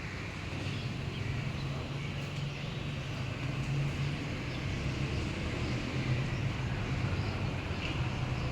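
Steady low rumble of city traffic, with faint, scattered bird chirps above it.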